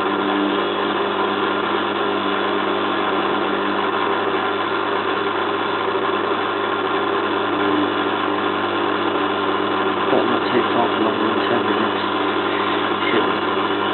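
Zanussi FLA1002W front-loading washing machine running steadily in its spin phase with a heavy duvet load, a constant motor hum and drum noise.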